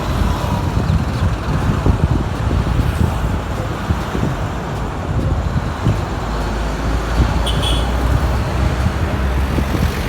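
Steady engine and road rumble of a bus on the move.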